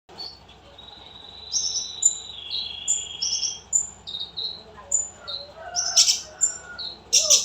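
Lovebird singing: a run of short high chirps and a long held whistle, a brief harsh burst about six seconds in, then a loud, fast chatter of rapidly repeated notes starting near the end.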